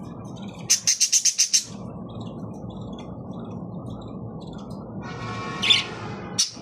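Parrot calling: a quick run of about eight sharp, high chirps about a second in, then a harsher squawk near the end.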